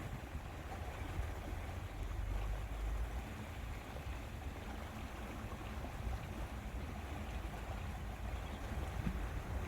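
Steady lake-shore ambience: wind rumbling on the microphone over water lapping, with no distinct events.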